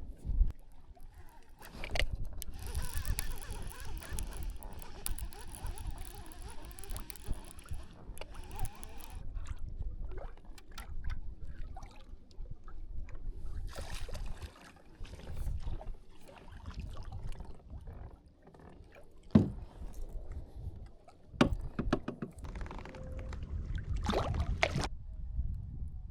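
Kayak out on the water: a steady low rumble of water and wind noise, with a scattering of sharp knocks and clicks from the boat and gear, the loudest about 19 seconds in.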